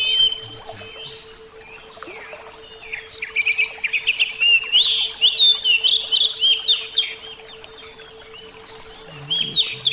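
Oriental magpie-robin (kacer) singing a fast, varied run of whistles and chirps, thinning out for a couple of seconds about a second in, dense again from about three seconds, and thinning once more near the end. A steady faint hum runs underneath.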